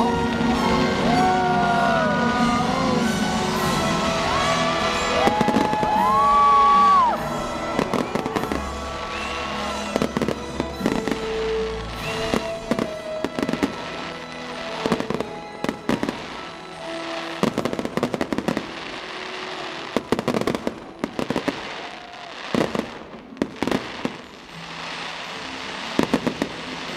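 Fireworks show: the show's music plays loudly for about the first seven seconds. After that it quietens, and firework bangs and crackles burst out repeatedly over it.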